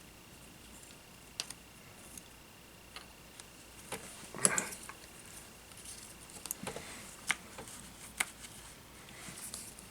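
Small tools and parts handled on a workbench: scattered light clicks and taps, with a brief clatter about four and a half seconds in.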